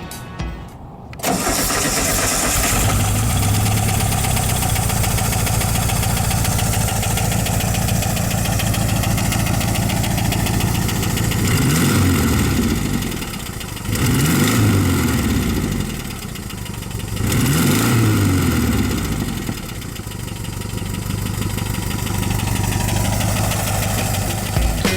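1976 Volkswagen Westfalia bus's air-cooled flat-four engine starting about a second in, then idling steadily, with three brief revs in the second half.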